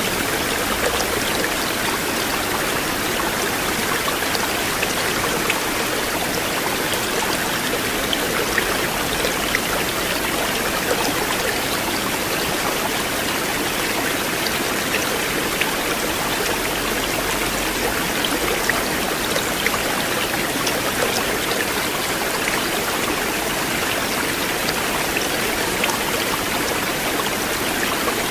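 Flowing river water: a steady rush with small splashes and trickles scattered through it.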